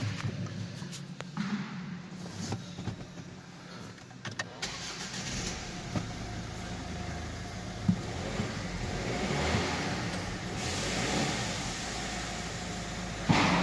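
Volvo V70 engine turning over and starting, then running, with a deeper running sound setting in about a third of the way in and a sudden louder burst near the end.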